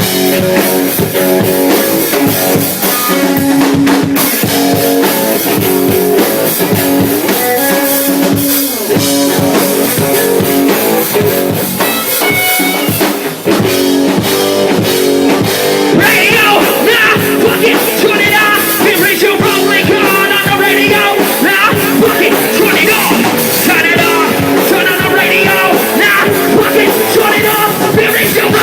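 Live rock band playing an instrumental passage with distorted electric guitar, bass and drum kit; about halfway through, a high wavering guitar line comes to the front.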